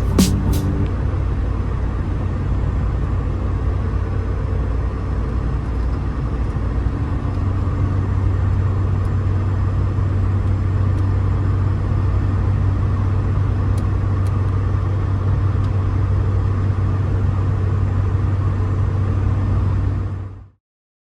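A car engine running steadily, a low even drone with no revving, that fades out near the end.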